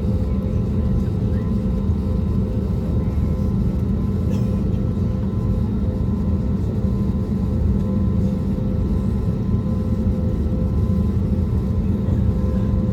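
Steady engine and airflow noise inside the cabin of an Airbus A320neo with CFM LEAP-1A26 turbofans: an even low rumble with faint steady hums above it.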